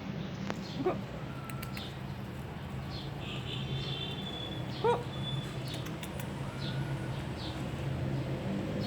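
Puppies whimpering with short high squeaks, with two louder yelps about a second in and about five seconds in. A steady low hum runs underneath.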